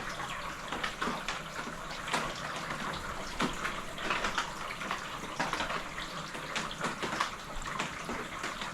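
Rainwater dripping off the roof panels into rain gutters: a steady patter with many separate, irregular drips.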